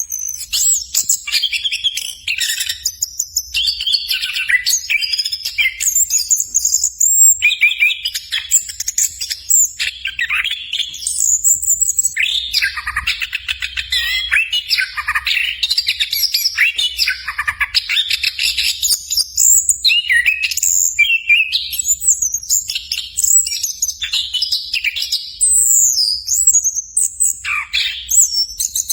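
Orange-headed thrush (anis kembang) singing a fast, near-continuous, varied song of high whistles and trills, with phrases running into one another and only brief pauses.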